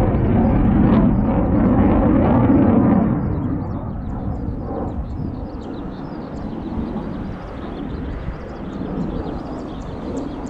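Aircraft engine noise passing, loud for about the first three seconds, then fading to a lower, steady rumble.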